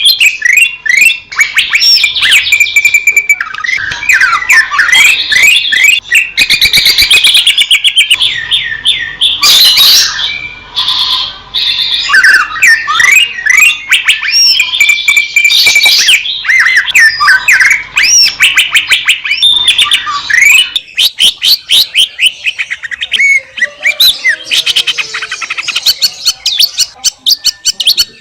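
Green leafbird (cucak ijo) singing loudly and almost without pause: a fast, varied song of whistled glides and quick runs of repeated notes.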